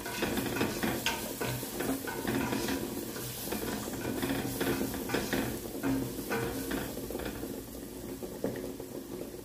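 Onions and spices sizzling in hot oil in a stainless steel pot while a slotted nylon spatula stirs and scrapes against the pot, with irregular scraping knocks throughout.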